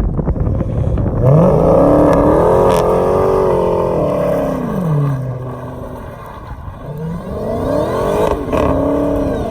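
Dodge Challenger SRT Demon's supercharged 6.2-litre Hemi V8 revving hard twice while the car does donuts. Each time the revs climb, hold high for a couple of seconds and then drop back.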